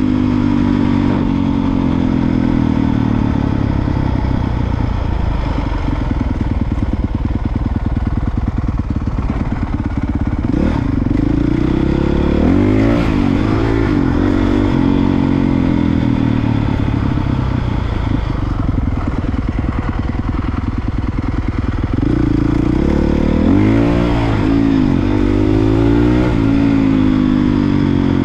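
Honda CRF450R dirt bike's single-cylinder four-stroke engine running continuously on a trail ride, revving up and down with the throttle. The pitch rises and falls in quick repeated swells around the middle and again near the end.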